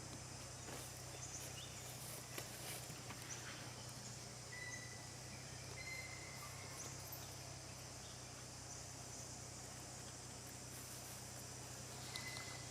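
Outdoor ambience: a steady high insect drone with a low hum beneath it. A few short, level, high-pitched chirps and scattered faint clicks sound over it.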